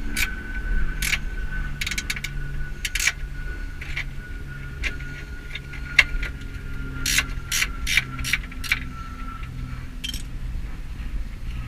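Ratchet wrench clicking in short bursts as bolts on an engine mount are turned, over a low steady hum.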